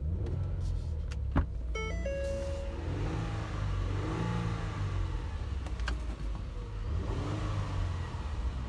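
Ford 3.5-litre Duratec V6 of a 2009 Ford Flex running, with a steady low idle that rises and falls back twice as the engine is revved. A sharp click and a short electronic tone come early on.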